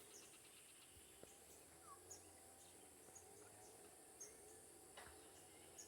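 Faint steady high insect drone with scattered short high ticks, a few faint bird notes, and one sharp tap about five seconds in.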